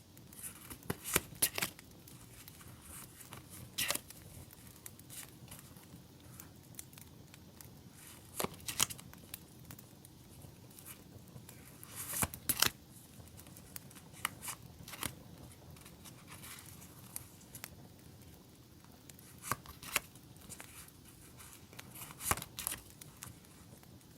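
Paper and plastic stationery handled by hand: sticker sheets and packaging rustle and crinkle in scattered sharp bursts, over a quiet steady hiss.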